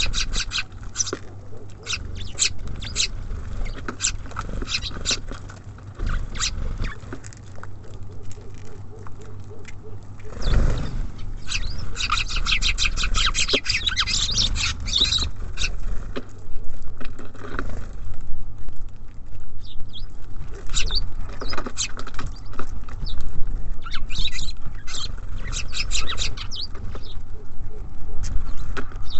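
Small birds at a feeder: a steady scatter of quick, sharp taps and clicks from pecking, with two denser runs of rapid ticking about 12 and 25 seconds in.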